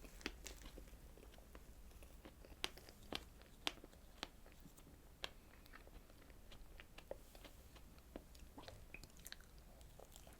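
Close-miked eating of strawberry desserts: faint chewing with scattered sharp, wet mouth clicks and small crunches at an irregular pace. The loudest clicks come in the first half.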